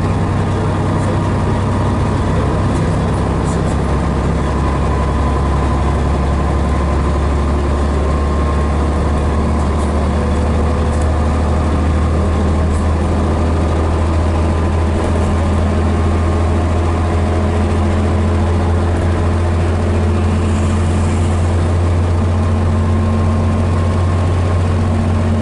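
Scania DS11 six-cylinder diesel engine of a Scania BR111DH / MCW Metropolitan double-decker bus running at a steady, unchanging speed, with a deep low hum.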